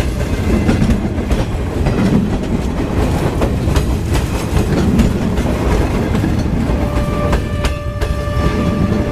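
Steam-hauled train of an SY class 2-8-2 locomotive rolling along, the wheels clattering over the rail joints in a steady, regular rhythm. A steady pitched tone joins in near the end.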